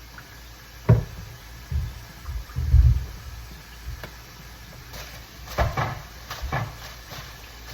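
Kitchen clatter of cookware being handled: a sharp knock about a second in, a couple of low thuds, then a quick run of clicks and taps near the end.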